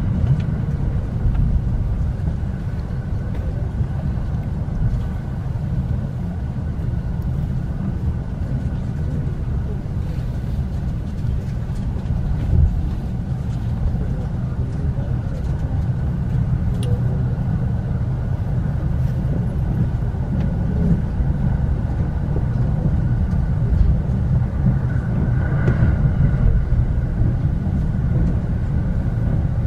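Inside the car of an electric commuter train running at speed: a steady low rumble of the wheels on the rails, with a faint steady high whine over it.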